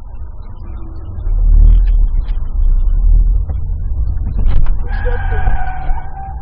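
Low engine and road rumble heard from inside a car, then a car horn sounding one steady held blast of about a second and a half near the end.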